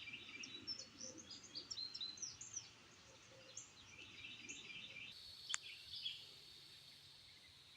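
Several birds chirping in quick, high twittering calls, thinning out after about five seconds. Then a steady, faint high-pitched buzz continues, with one sharp click shortly after it begins.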